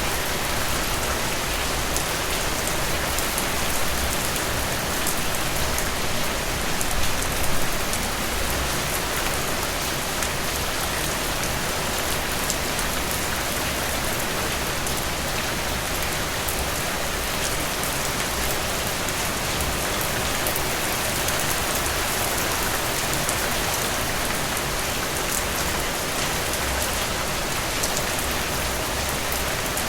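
Steady rain falling through trees: an even hiss with fine scattered drop patter, swelling slightly about seven seconds in.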